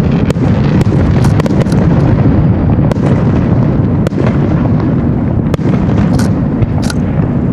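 Fireworks display: aerial shells bursting one over another in a dense, continuous barrage of booms, with many sharp cracks throughout. Two brief hissing bursts come near the end.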